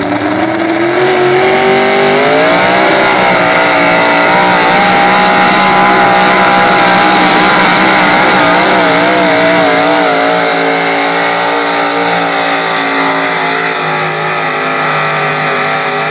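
Super stock 4x4 pulling truck's engine at high revs under full load during a pull, running loud. The revs climb over the first couple of seconds, waver through the middle, and ease off after about ten seconds.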